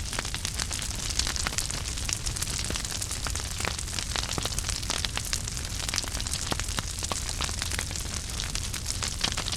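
Wood fire burning in a fireplace, crackling steadily with many small sharp pops over a soft hiss and a low rumble.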